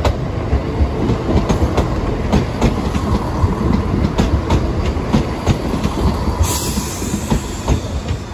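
Class 170 diesel multiple unit passing close by over the level crossing: diesel engine rumble with the wheels clacking over rail joints in a run of sharp knocks. A hiss comes in about six seconds in.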